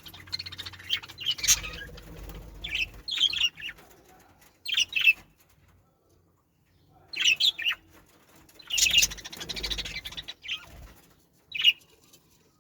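Small Australian parrots in a cage colony chirping in short, high bursts, with pauses between them and a gap of about a second and a half in the middle. A broad rustle twice under the calls.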